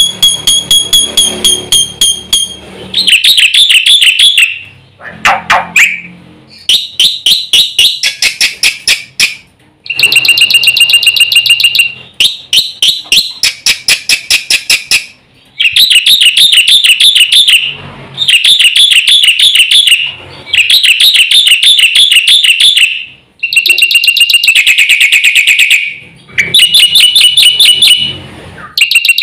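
Black-winged starling (jalak putih) singing loudly in fast, busy phrases. Each burst of rapidly repeated notes lasts a few seconds, with short breaks between them.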